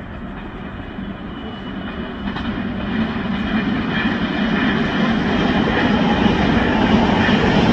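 Intercity passenger train passing at speed, a steady rolling noise of wheels on rails that grows louder as the coaches go by, with a faint steady whine over it.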